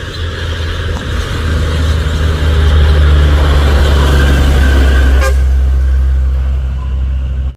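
Heavy Fuso 6x4 tanker truck's diesel engine working hard up a steep climb, a loud steady drone that peaks about three seconds in and eases after about five seconds.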